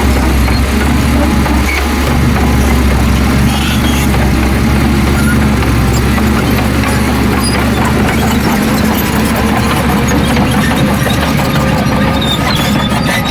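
Heavy diesel earthmoving machinery engine running steadily at a constant load.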